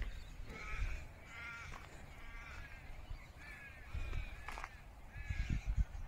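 Birds calling in a run of short, repeated harsh calls, with footsteps thudding in a steady beat near the end.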